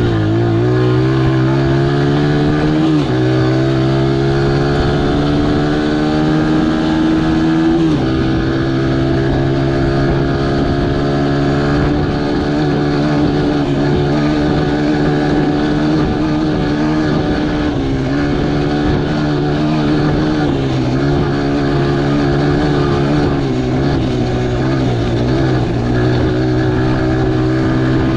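Honda XR100R's single-cylinder four-stroke engine running under load on a trail ride. Its pitch climbs and drops back at gear changes about three and eight seconds in, then runs fairly steadily with small rises and dips in revs.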